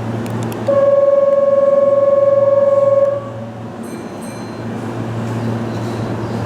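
A Keihan train's horn sounds one steady, loud blast of about two and a half seconds over the low hum of a train at the station. Faint, brief high squeaks follow.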